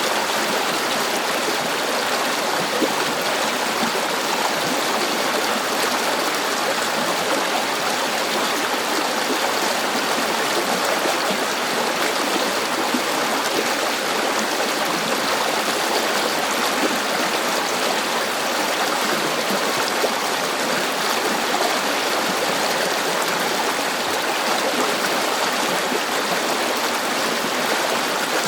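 River water flowing and babbling over rocks, a steady unbroken rush.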